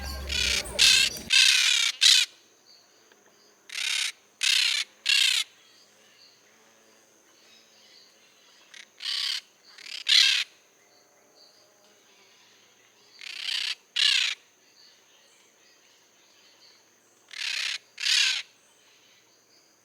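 A toucan giving harsh, croaking calls in short clusters of two or three, repeating every few seconds.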